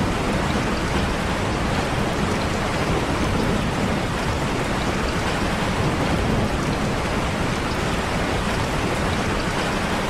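Steady rain falling, an even, unbroken hiss of rain on the ground.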